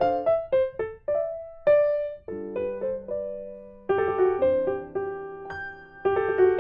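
Background music played on piano: a run of single notes, then fuller chords from about four seconds in.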